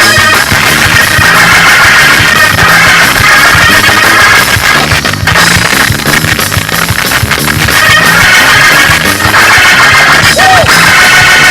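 Loud church band music for a praise break: a fast, driving beat with a repeating bass line under dense drums and other instruments.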